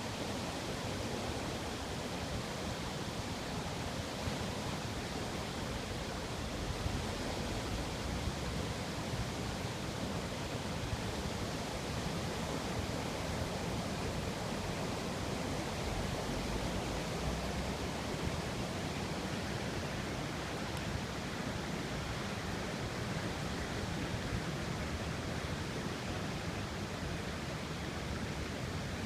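Steady, even hiss of water, rain or runoff after a heavy downpour, with no distinct events.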